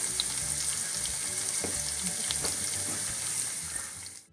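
Chopped onion and whole spices sizzling steadily in hot oil, with scattered faint ticks. It fades out near the end.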